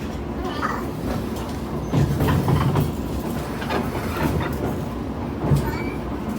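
Local electric train running along the line, heard from on board: a steady low rumble of wheels and running gear with several clacks as the wheels pass over rail joints.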